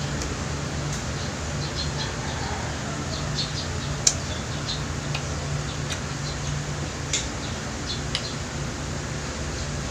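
A person chewing food with the mouth closed: scattered short wet clicks and smacks, the sharpest about four seconds in and again about seven seconds in, over a steady low hum.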